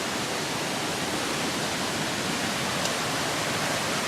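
Steady rushing water, an even noise that does not change.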